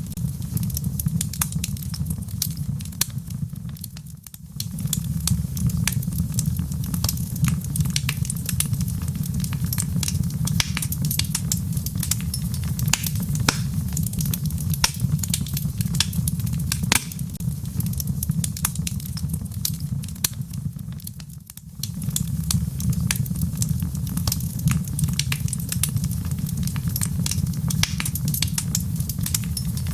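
Wood logs burning in a fireplace, crackling with many sharp pops over a steady low rumble of the flames. The rumble briefly dips twice, about four and twenty-one seconds in.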